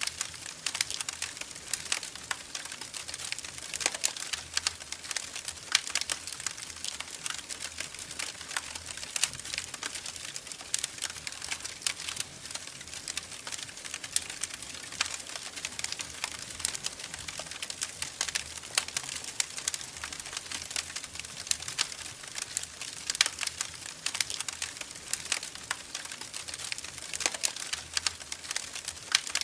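Wood fire crackling in a fireplace: a continuous stream of irregular small crackles with occasional louder pops.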